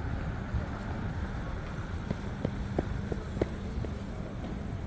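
Steady low city traffic rumble, with a quick run of hard footsteps clicking on the pavement about halfway through.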